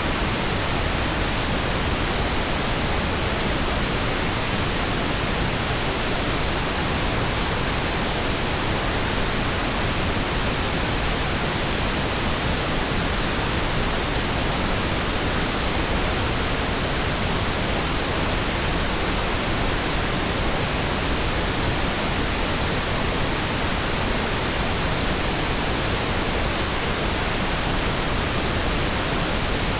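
Synthetic pink noise: a smooth, steady hiss across the whole range, with no changes or interruptions.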